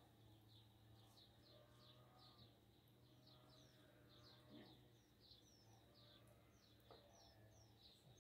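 Near silence with faint bird chirping: short falling chirps, a few each second, over a faint steady low hum.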